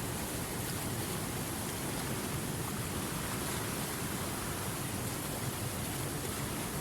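River water flowing over rapids: a steady, even rushing with no breaks.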